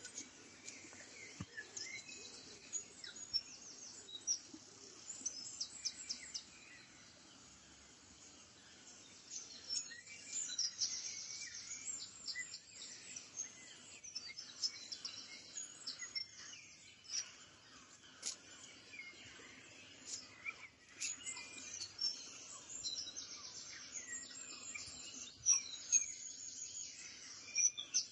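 Several birds chirping and trilling, with many short, high calls following one another.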